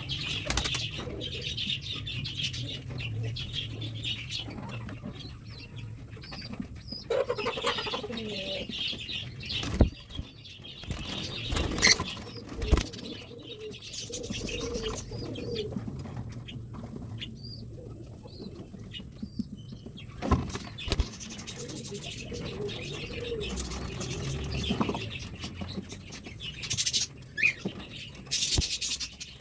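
Pigeons cooing and flapping their wings, with a few sharp knocks scattered through.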